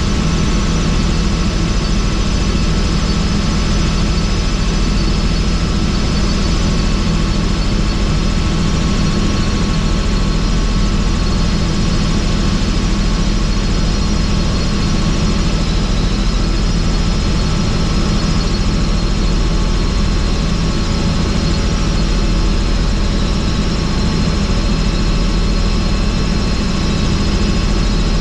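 Helicopter running steadily in flight, its rotor and engine noise heard from inside the cabin with the doors off, even and unbroken throughout.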